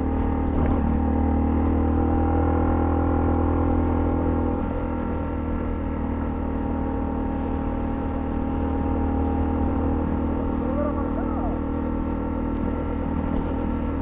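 Honda CL250 single-cylinder engine running at a steady, even speed under way, easing slightly about four and a half seconds in.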